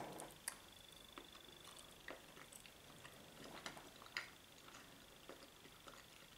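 Very faint mouth sounds of chewing a soft potato dumpling: scattered small clicks and smacks against near silence, with a faint steady high whine in the background.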